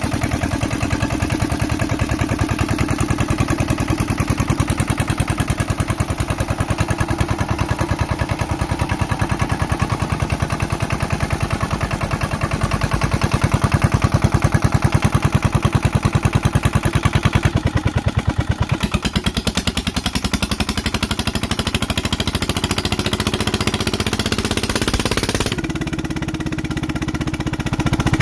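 Compact single-cylinder Yanmar SK marine engine running with an even, rapid firing beat. It gets louder for a few seconds midway and dips briefly near the end before picking up again.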